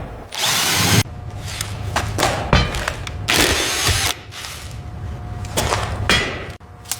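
Renovation tool work: a power tool running in two loud bursts of under a second each, with shorter scraping strokes and knocks between them.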